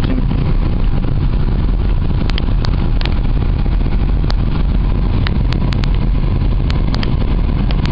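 Steady low rumble of a car's engine idling, heard from inside the cabin, with scattered sharp clicks throughout.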